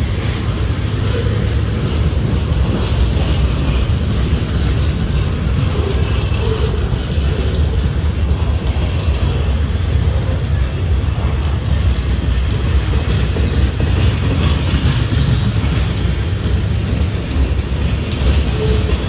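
Freight train of boxcars and refrigerator cars rolling past close by: a loud, steady rumble of steel wheels on the rails.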